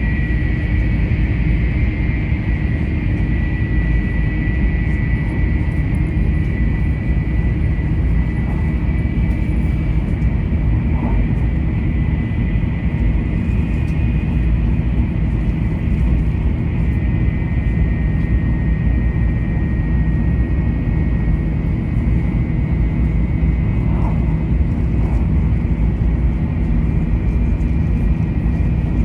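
Taiwan High Speed Rail bullet train running steadily, heard from inside: a continuous loud rumble with a high whine over it.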